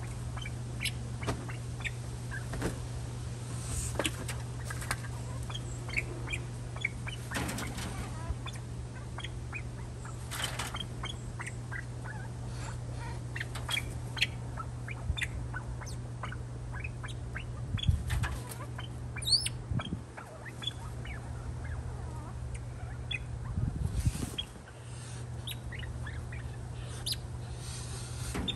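Birds chirping and calling: many short sharp chirps with a few louder calls scattered through, over a steady low hum.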